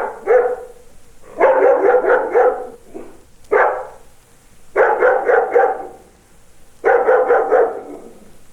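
A dog barking in quick runs of four or five barks, with pauses of about a second between the runs.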